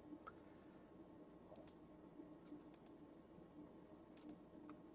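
Near silence: a faint steady room hum with about half a dozen faint, scattered clicks of a computer mouse.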